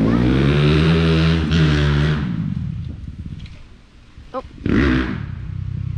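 Dirt bike engine running at steady revs, then fading away over a couple of seconds as the bike moves off. A sharp click and a short loud burst follow about four to five seconds in, and engine sound returns near the end.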